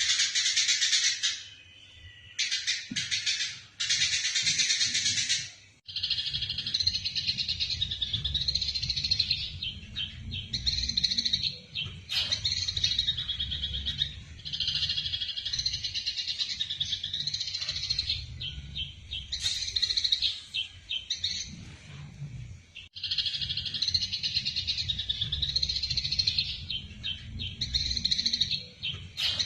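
Eurasian tree sparrows chirping rapidly and excitedly, the chatter of sparrows fighting, in runs of a few seconds with short breaks. A low rumble sits underneath from about six seconds in.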